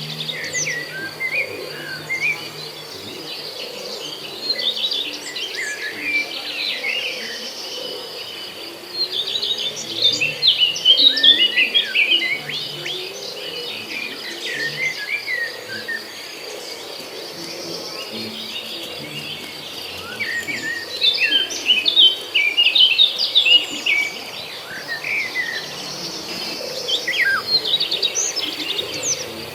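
A songbird chirping and twittering in quick, busy runs of short notes, with the fullest bursts about a third and two thirds of the way through, over a steady high-pitched buzz.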